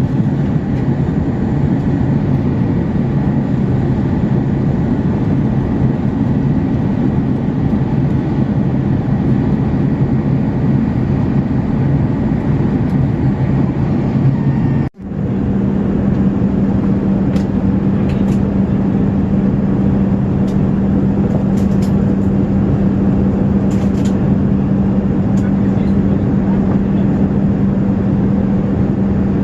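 Steady cabin noise of an Airbus A380 in flight: engine and airflow noise with a constant low hum. About halfway the sound drops out for an instant and comes back with the hum at a higher pitch.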